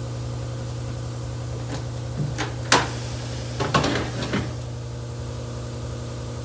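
Steady low machine hum with a handful of sharp knocks and clanks in the middle stretch, the loudest about two and a half seconds in.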